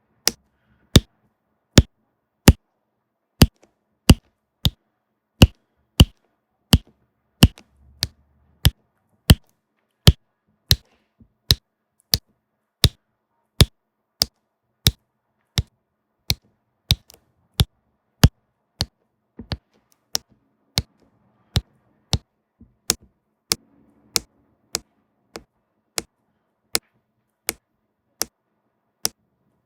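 Crisp, evenly spaced taps of a diamond painting pen pressing diamonds onto the canvas, about one and a half a second.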